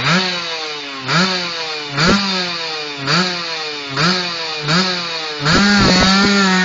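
Kawasaki Ninja R two-stroke single revving through an RMG Racing galvanised aftermarket racing exhaust: six quick throttle blips about a second apart, each rising sharply then falling back, then held at a steady high rev near the end.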